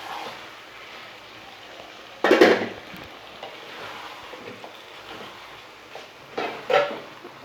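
Marinated chicken sizzling as it is fried down in onion-tomato masala in a pan while being stirred, with two louder spatula scrapes, one about two seconds in and one near the end.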